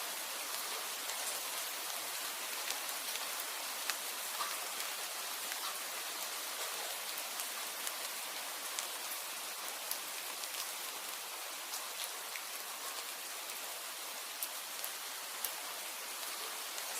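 Steady rainfall: an even hiss with scattered sharp ticks.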